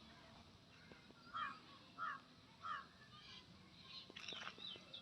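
A bird calling faintly: three short calls about two-thirds of a second apart, then a few fainter calls near the end.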